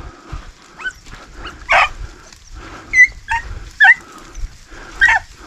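Beagles barking and yipping: about five short, sharp barks spread across a few seconds, as the hounds work to pick up a rabbit's scent.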